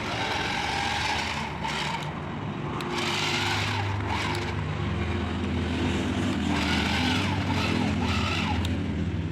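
Remote-control model tractor's small electric motor and gearbox whining steadily as it hauls a heavily loaded trolley, the hum growing stronger about three seconds in.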